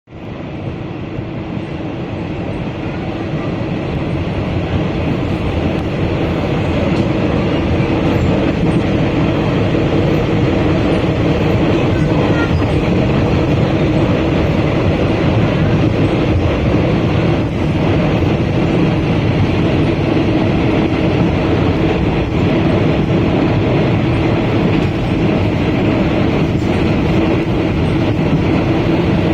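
Passenger train running, heard from on board: a steady rumble of wheels on rails with a constant hum, growing louder over the first several seconds as it gathers speed.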